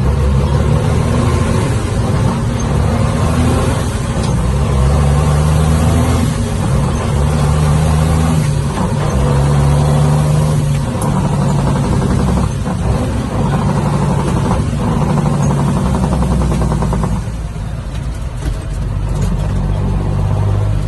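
Ford dump truck engine running under way, its note rising and dropping back several times, then settling lower and quieter about seventeen seconds in.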